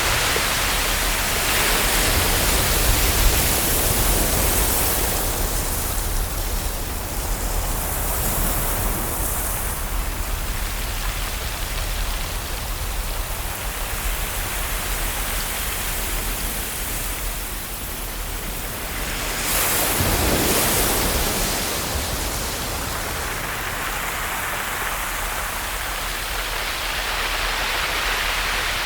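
Ocean waves washing onto a shore: a steady rush of surf that swells and ebbs, with a louder surge about twenty seconds in.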